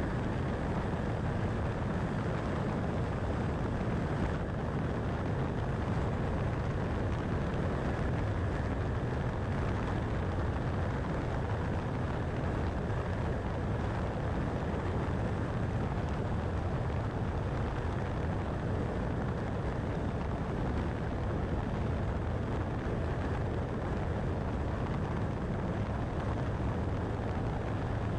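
Steady road noise of a car driving at highway speed: an even low rumble of tyres and engine.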